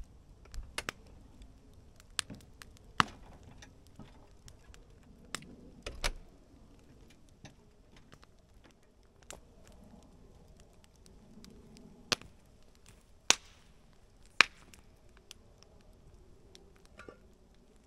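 Wood campfire crackling: a dozen or so sharp pops at uneven intervals, a few louder ones in the second half.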